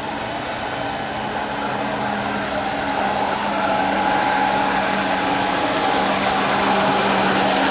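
Electric jet kayak's motor and jet pump running with a steady whine over a rush of water, growing gradually louder.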